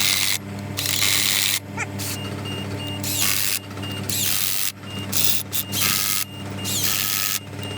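A power tool running in about eight short, irregular bursts of roughly half a second each, over a steady low machine hum.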